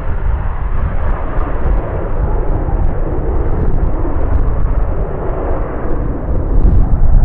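Military jet aircraft engine noise: a loud, steady, deep rumble that grows louder near the end.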